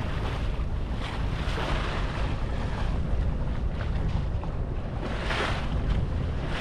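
Wind buffeting the microphone over the wash of water along the hull of a sailing ketch under sail, its engine off.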